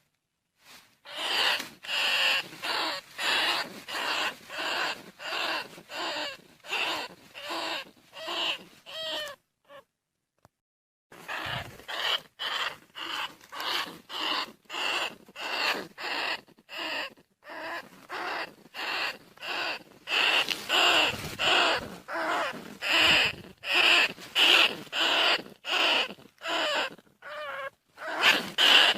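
Bandicoot rat squeaks, a lure recording: short pitched squeaks repeating about twice a second, with a brief silent gap about ten seconds in.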